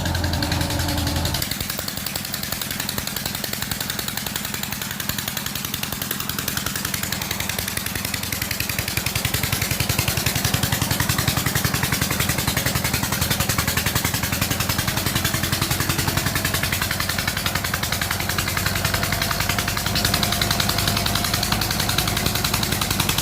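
MTZ Belarus tractor's diesel engine running under load while ploughing in mud, as a dense, steady pulsing. The sound changes abruptly about a second in.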